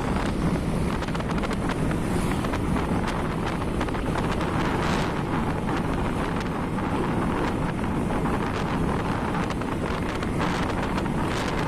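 Wind buffeting the microphone of a moving motorcycle, a steady rush with fluttering gusts, over a low rumble of riding noise.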